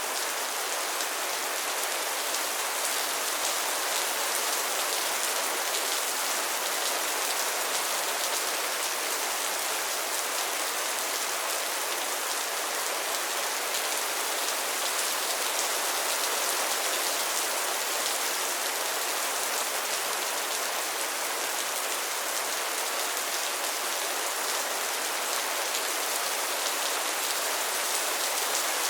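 Steady rain falling on a pond's water and lily pads: an even hiss of countless small drop impacts that holds unchanged throughout.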